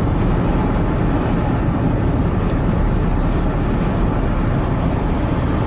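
Steady road and engine noise inside a moving car's cabin at highway speed.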